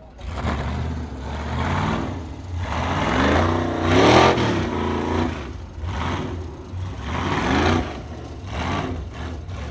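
Ultra4 race car's engine revving in repeated bursts under load as it climbs over boulders, the pitch rising and falling several times, loudest about four seconds in.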